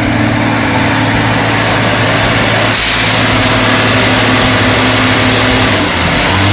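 A vehicle engine running steadily with a wash of road noise, and a short hiss about three seconds in.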